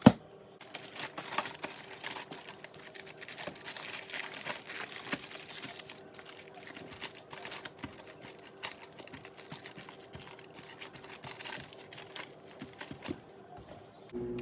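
Parchment paper crinkling and rustling as it is handled and smoothed on a sheet pan, in a dense run of crackles that slacken near the end. There is a sharp knock at the very start and a faint steady hum underneath.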